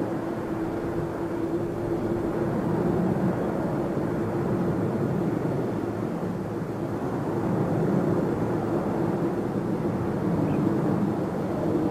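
Jet airliner engines running, a steady rumble that holds through the whole stretch, with a hum that fades over the first few seconds.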